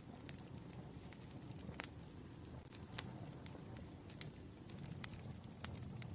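Firewood burning with a steady low rush of flame and sharp, irregular crackling pops, roughly one a second.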